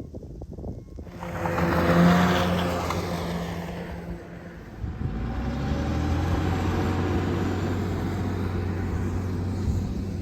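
A motor vehicle: a loud rush that starts suddenly about a second in, swells and fades, followed by a steady low engine hum from about five seconds on.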